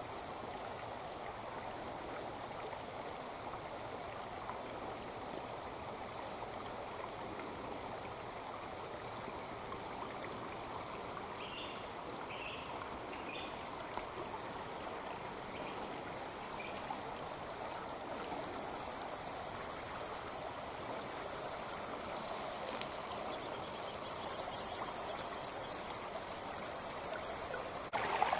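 A creek's water running and trickling steadily, with many short, high chirps repeating over it.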